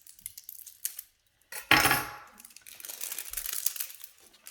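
Plastic packaging on a small toy being handled and pulled off: crackling and crinkling, with a loud crackle just under two seconds in and then a longer stretch of dense crinkling.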